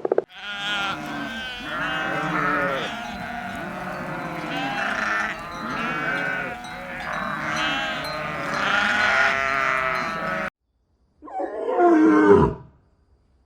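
A flock of sheep bleating, many overlapping calls. After a sudden break, one loud animal call falls in pitch near the end.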